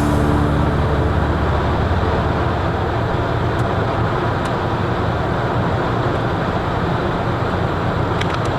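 Steady road and engine noise of a Volvo S70 driving along.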